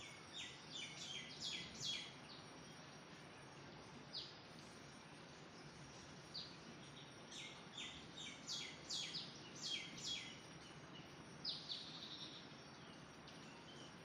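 A bird calling: short, sharp high notes in quick runs of a couple of seconds, with single notes between, over a steady background hiss.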